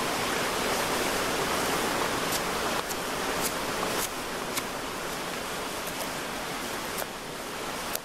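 Steady hiss of rain falling, with a few sharp ticks scattered through it.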